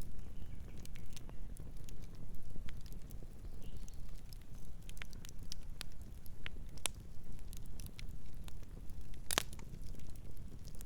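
Campfire burning: a steady low rush of flame with scattered sharp crackles and pops from the burning wood, the loudest pop about nine seconds in.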